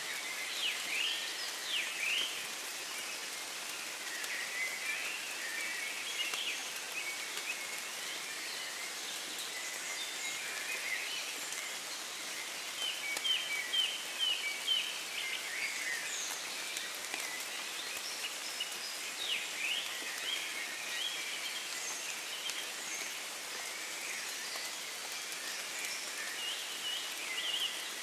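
Steady light rain falling in woodland, with birds singing through it: scattered chirps and short falling whistles, and a quick run of repeated notes about halfway through.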